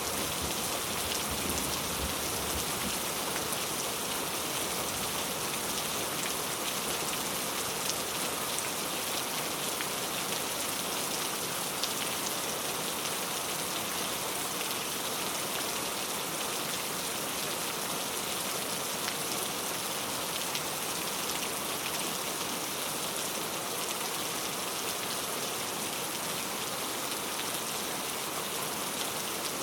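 Steady, even rainfall pattering on surfaces, with the tail of a low thunder rumble fading out in the first second.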